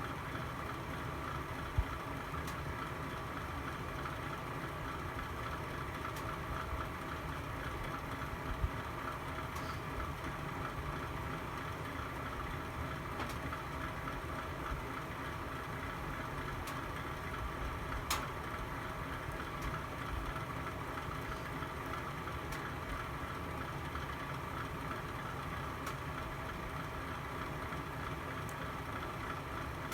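Fireplace fire burning with a steady rumble and a few sharp crackles, the loudest about 18 seconds in.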